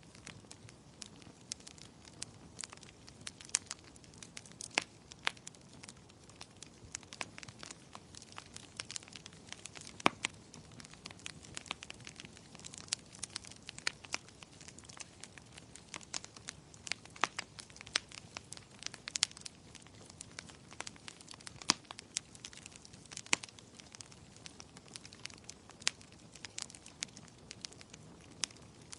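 Wood fire crackling in a fireplace: irregular sharp pops and snaps, a few louder, over a faint low hiss of burning.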